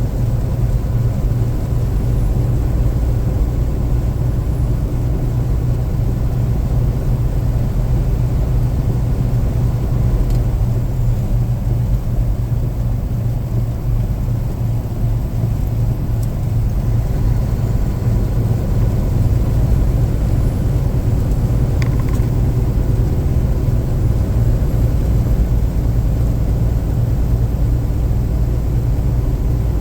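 Steady low rumble of a car on the move, heard from inside the cabin: tyre and road noise with the engine running, on a rain-wet road. A faint single click about two-thirds of the way through.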